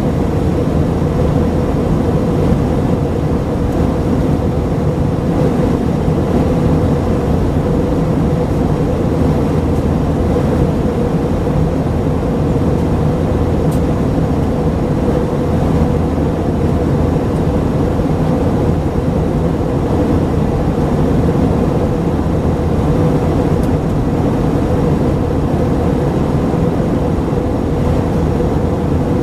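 Steady cabin noise of an Airbus A319-132 heard from inside, its IAE V2500 turbofans running at a constant setting under a dense rumble of engine and airflow noise, with a steady mid-pitched tone over it.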